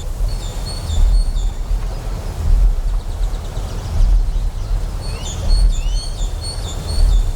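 Deep, pulsing generator hum that swells about every second and a half, layered with bird chirps: short repeated high chirps at the start and again from about five seconds in, with a couple of quick rising calls.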